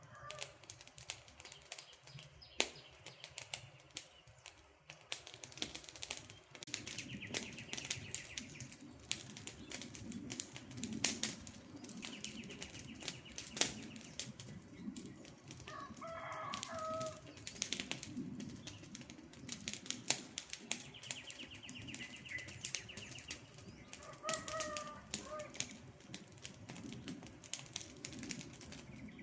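Campfire crackling with frequent sharp pops and snaps over a low rush of flame. A bird calls three times, each call lasting about a second and spaced several seconds apart, and a rapid high chirring trill comes and goes a few times.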